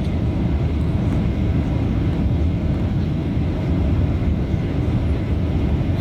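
Steady low rumble of a jet airliner, an even noise with no distinct tones or sudden changes.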